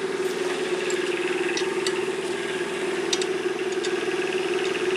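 An engine idling steadily with an even hum, with a few faint ticks over it.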